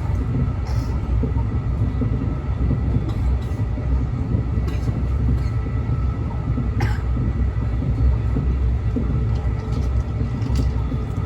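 Train running with a steady, heavy low rumble, a faint steady whine above it and a few sharp clicks.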